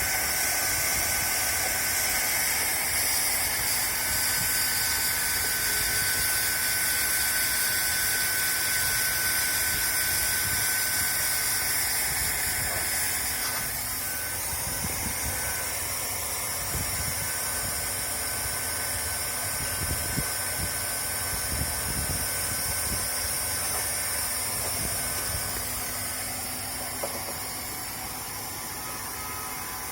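LST1600A hand-held hot-air plastic welding gun running: a steady hiss of hot air with the whine of its blower motor. It gets a little quieter about halfway through.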